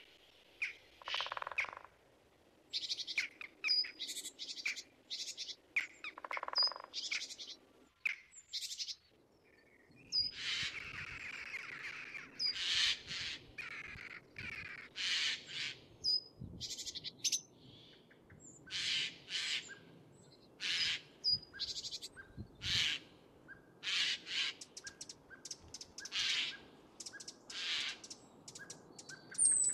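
Wild birds chirping and calling: many short, high notes one after another, with a brief lull about eight seconds in.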